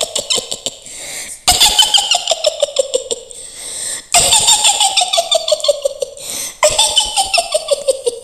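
Mak Lampir's witch cackle: a woman's voice laughing in rapid staccato 'hihihi' pulses that slide down in pitch, starting afresh three times, each lasting about two and a half seconds.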